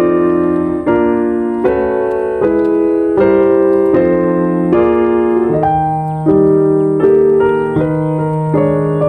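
Piano music: chords struck about every 0.8 s, each left to ring and fade slightly before the next.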